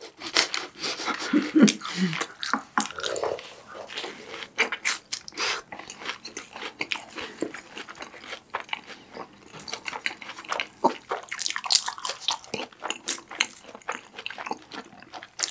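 Close-up chewing of BHC Ppuring cheese balls, deep-fried balls with a crisp breaded crust, by two people: frequent irregular crunches and crackles of biting and chewing.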